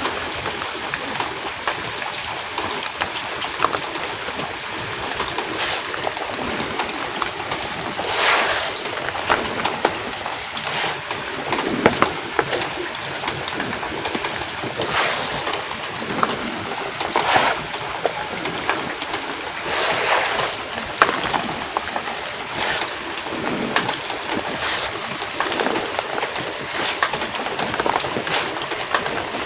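Dyed homemade reformed gym chalk blocks being crushed and crumbling, with constant small gritty crackles and several louder crunches, over a steady hiss of rain.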